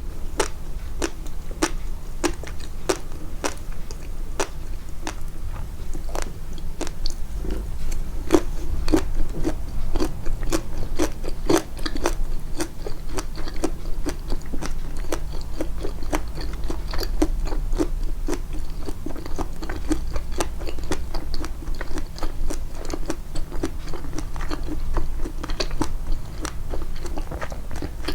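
Close-up chewing with steady mouth sounds and a quick run of crisp, crunchy clicks, about two or three a second.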